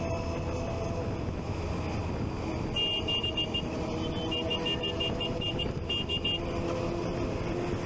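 Triumph Street Triple 675 three-cylinder motorcycle running steadily on the move, with road noise. From about three to six seconds in, a quick series of high-pitched electronic beeps, several a second.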